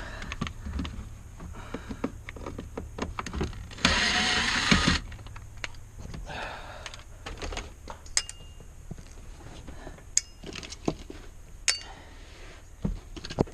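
Car interior disassembly: scattered clicks and knocks of tools and plastic trim being handled, with a loud, rough, noisy burst lasting about a second about four seconds in. Near the end come two short ringing metallic tinks.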